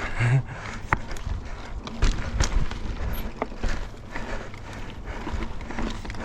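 Mountain bike riding over slickrock, with irregular sharp knocks and rattles as the bike jolts over the rock.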